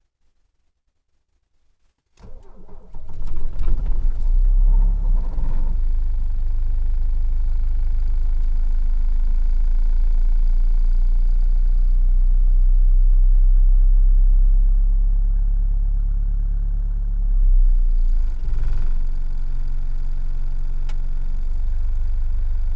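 Mercedes-Benz W123 240D's four-cylinder OM616 diesel cold-starting at about −9 °C: after a couple of seconds of quiet it cranks and fires, then settles into a steady, loud idle. The engine note briefly rises about three-quarters of the way through.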